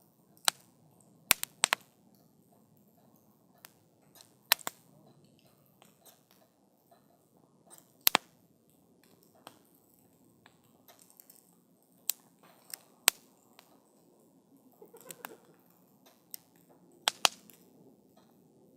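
Wood campfire burning, crackling with sharp irregular pops and snaps, about a dozen loud ones scattered through, over a faint low hiss of the flames.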